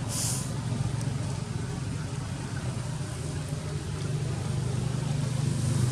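A steady low drone of an engine running, with a brief high hiss right at the start.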